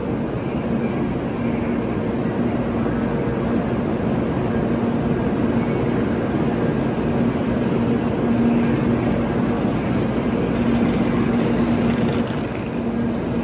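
Steady drone and whir of a Shinkansen train standing at the platform, its on-board equipment running with a low, even hum.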